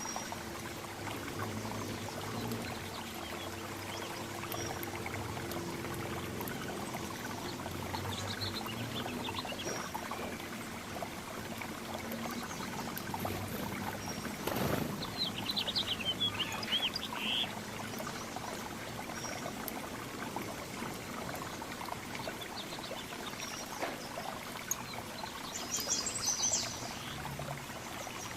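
Steady running, pouring water with small songbirds chirping now and then. Short bursts of chirps stand out about halfway through and again near the end.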